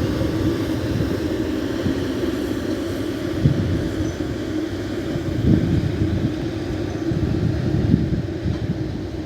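A passing train rumbling along the track, with a few heavy clunks. It eases off slightly near the end.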